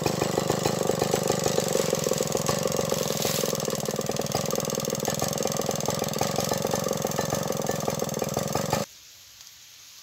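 Stihl 070 two-stroke chainsaw engine running steadily at an even pitch with a fast, regular beat. The sound cuts off abruptly near the end, leaving only faint background.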